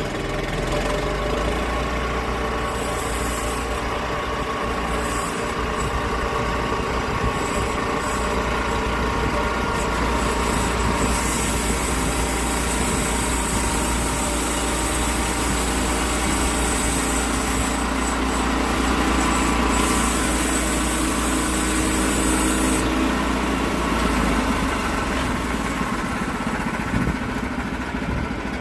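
Portable sawmill's engine running steadily, with a higher hiss joining in for about twelve seconds in the middle.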